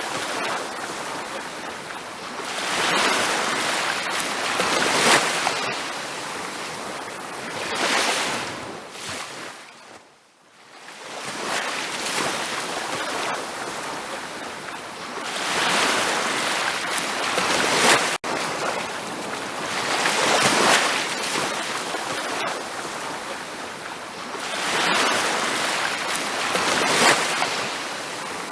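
Ocean surf breaking on a beach, a steady wash of water swelling and receding every few seconds. It fades almost to silence briefly about ten seconds in.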